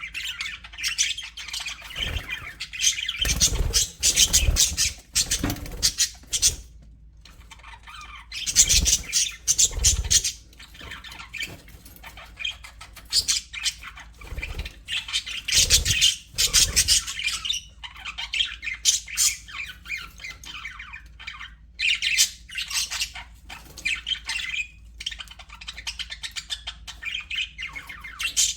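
Budgerigars chattering and squawking in bursts with short pauses, with a few dull low thumps among them in the first half.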